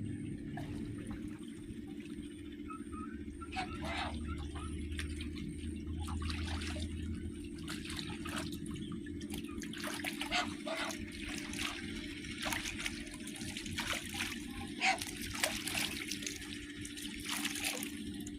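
Water trickling and splashing in irregular spatters over a steady low hum.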